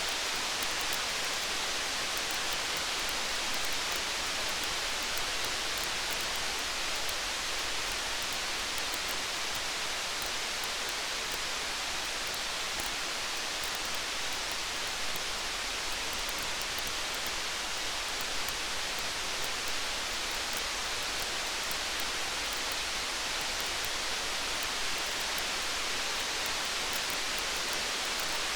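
Steady, even rain hiss, with faint tiny ticks scattered through it.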